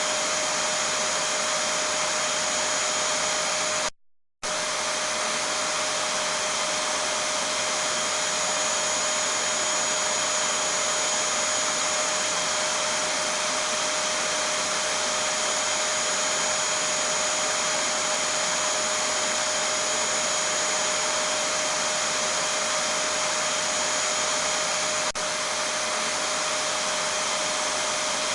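Vacuum cleaner running steadily: an even rushing whir with a steady mid-pitched hum and a high whine. About four seconds in it cuts out for under half a second, then carries on unchanged.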